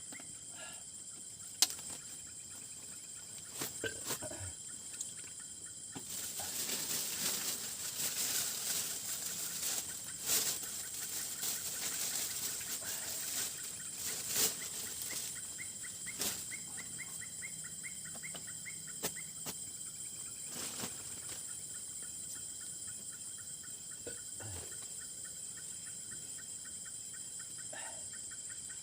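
Steady high-pitched buzz of night insects, with a repeated pulsing call running under it. For several seconds in the middle, close rustling and scattered clicks rise over the buzz.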